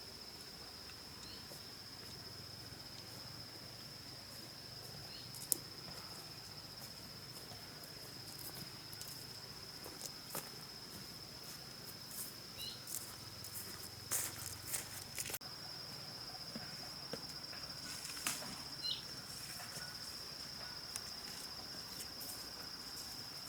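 Forest ambience with an insect's continuous high-pitched trill. Scattered clicks and rustles cluster in the middle and later part, and a few short faint chirps are heard.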